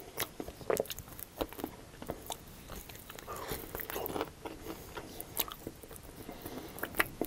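Close-miked chewing of fried chicken wings, with irregular crunches, clicks and wet mouth sounds as the meat is bitten and pulled off the bone.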